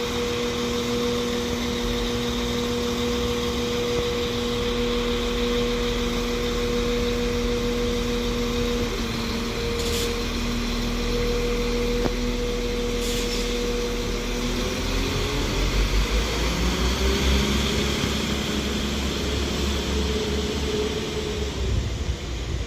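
Transport for Wales Class 197 diesel multiple unit's engines running steadily at the platform, then from about fifteen seconds in revving up with a rising note and a heavier rumble as the train starts to pull away. Two short high clicks come in the middle.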